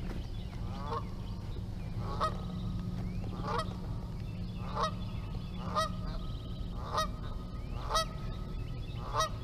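A bird calling over and over, a short call about once a second, over a low steady rumble.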